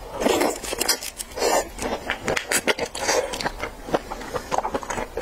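Close-miked wet chewing and mouth smacking as a woman bites into and chews raw shrimp, in uneven bursts about once a second with small clicks between them.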